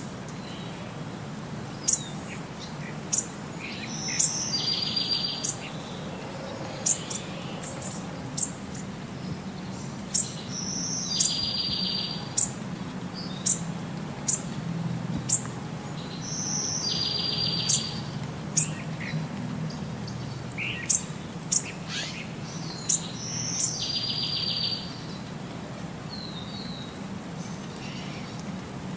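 Wild birds chirping: sharp, high single chirps scattered throughout, and a short rapid trill repeated about every six seconds. A low steady hum runs underneath and drops away near the end.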